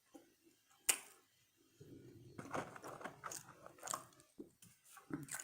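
A person chewing French fries close to the microphone, with irregular soft crunches from about two seconds in, after a single sharp click about a second in.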